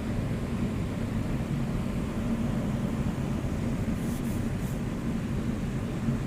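Automatic car wash machinery running with a steady low rumble, with a couple of faint high ticks about four seconds in.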